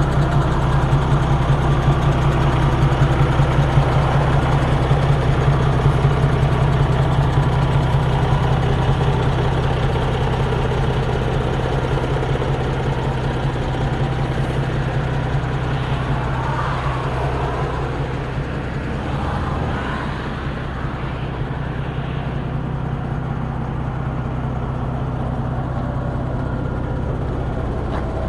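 A 1976 MAN 11.136 truck's diesel engine running steadily with an even low drone. It grows slightly quieter partway through.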